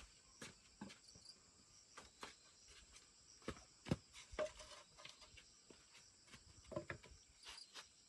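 Faint steady insect chirring in the forest, with scattered light knocks and taps at irregular intervals, the loudest a few seconds in.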